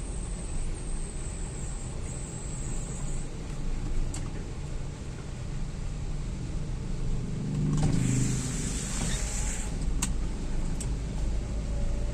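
Vehicle engine running steadily on the move, with a louder rushing swell of noise about eight seconds in and a few sharp clicks.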